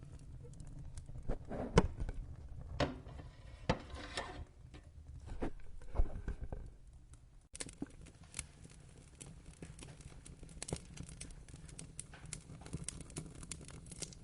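Wood fire crackling and popping over a low rumble. The loudest pops come about two seconds in and about six seconds in; after about seven and a half seconds the crackling turns finer and more even.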